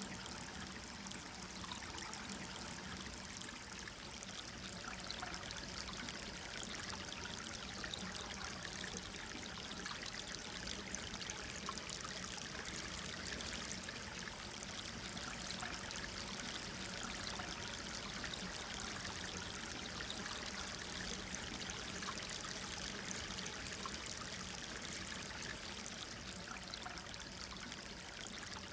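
Gentle stream flowing: steady babbling and trickling of water over stones.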